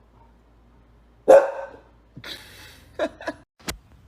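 A pet dog barking: one loud bark about a second in, then a few shorter, quieter barking sounds, and a sharp click near the end.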